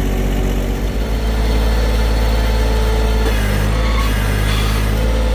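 John Deere tractor engine running steadily while carrying a bin on its front forks, its note shifting about a second in and again a little past three seconds.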